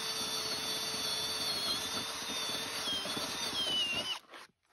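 A power tool running with a steady high whine that dips in pitch a few times near the end, then cuts off suddenly.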